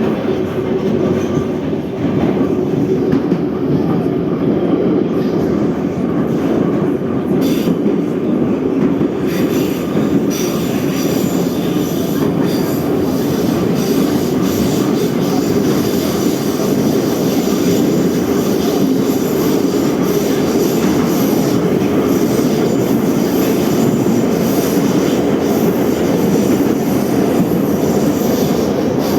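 Moscow Metro 81-717/714 subway train running at speed between stations, heard from inside the car: a steady loud rumble of wheels on rail, with more high-pitched wheel noise from about nine seconds in.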